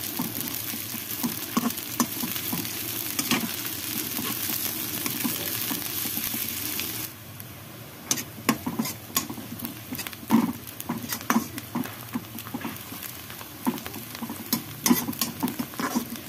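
Shredded cabbage and onion sizzling in oil in a metal kadai, stirred with a steel spatula that scrapes and clacks against the pan. The sizzle drops off suddenly about seven seconds in, and after that the spatula scrapes stand out.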